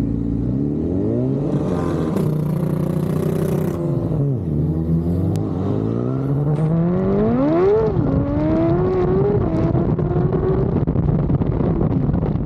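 High-revving sport motorcycle engine on a roll-racing pull. The revs climb and hold high, dip briefly, then rise hard through the gears with short drops at the upshifts, and fade as the bike pulls away.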